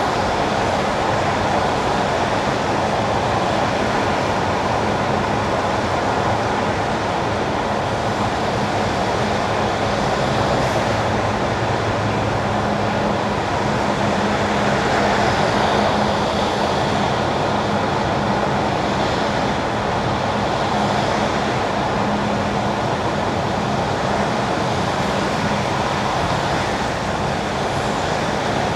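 Car tyres running on wet winter asphalt: a steady rush of road noise with a low hum underneath, and a few brief swells of hiss along the way.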